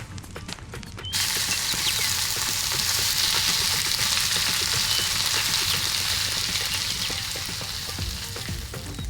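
Battered pakoras deep-frying in hot oil. The sizzle starts suddenly about a second in, then runs on steadily and eases slightly near the end.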